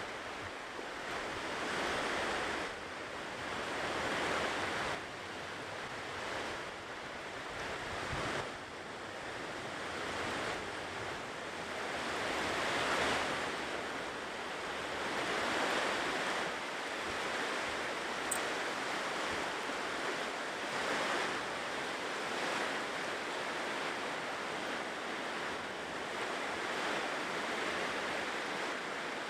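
Ocean surf washing onto a shore, a steady rushing hiss that swells and eases every few seconds as the waves come in.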